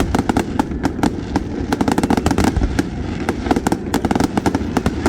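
Fireworks display going off in rapid succession: a dense run of sharp pops and bangs, several a second, over a steady low rumble.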